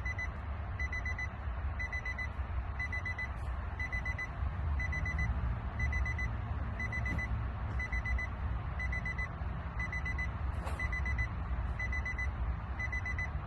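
A high electronic beep repeating at an even pace, over a steady low rumble.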